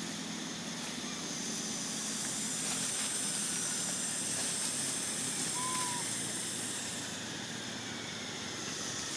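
Steady outdoor background noise: a constant high hiss over a low rumble, with a single short high squeak about six seconds in.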